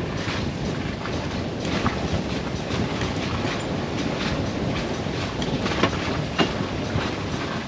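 Steady rush of wind and water aboard a sailboat under sail, with scattered irregular clicks and knocks.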